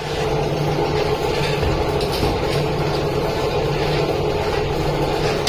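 Workshop machinery running steadily with a constant low hum.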